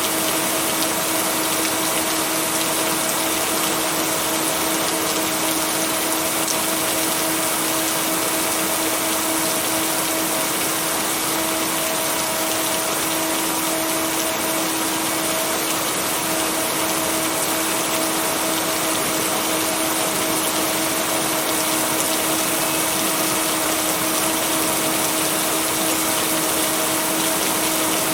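Steady, even rain noise with two steady hum tones laid over it, the binaural-beat tones of a sleep mix. No thunder breaks in.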